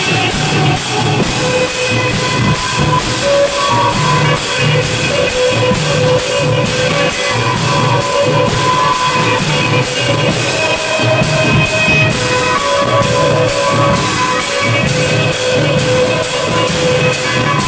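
Thai klong yao long-drum ensemble playing: a steady beat of low drum strokes and evenly spaced cymbal strikes under a sustained melody line.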